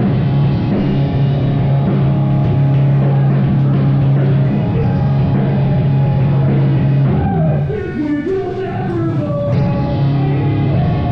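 Live rock band playing loud, with a heavy held low chord and drums. About seven seconds in, the held chord drops out for a couple of seconds while sliding, bending notes are heard, then it comes back in.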